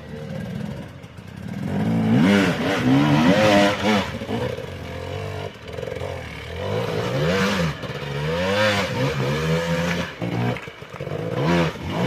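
Off-road motorcycle engine revved up and down repeatedly, its pitch rising and falling in bursts a few seconds apart, settling back to a lower running note between them.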